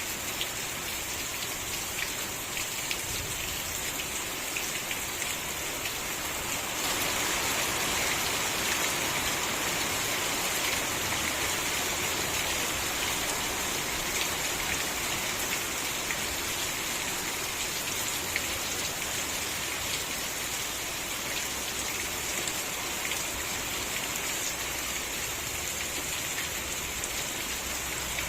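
Steady rain falling, with a dense hiss and scattered ticks of individual drops. It grows slightly louder about seven seconds in.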